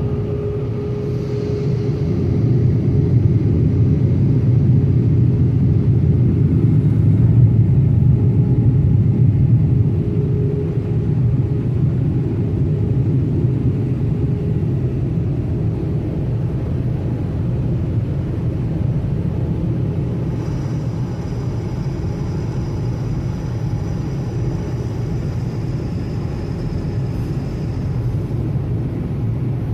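Automatic car wash machinery running: a steady low rumble that swells for several seconds, with a faint high whine joining about twenty seconds in.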